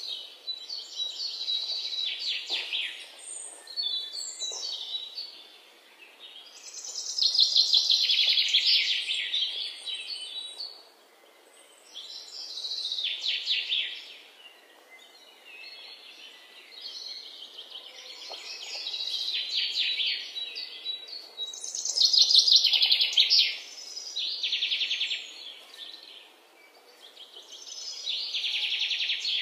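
Small birds chirping in rapid trilling bursts of one to three seconds each, with short gaps between them.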